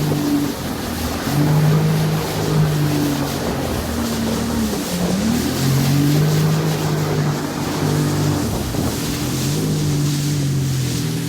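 Jet ski engine running under way, its pitch shifting up and down as the throttle changes, with a brief dip about halfway through. A steady rush of noise runs under it.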